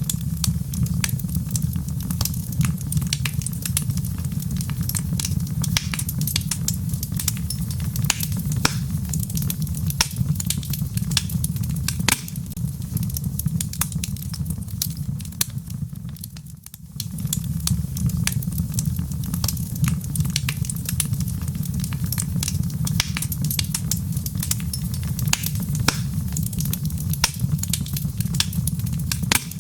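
Wood fire crackling with frequent sharp pops over a steady low rumble, with rain patter mixed in. The sound dips briefly about halfway through, then resumes.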